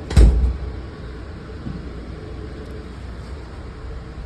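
MARC commuter train running, a steady low rumble heard from inside the car, with one loud sharp thump just after the start.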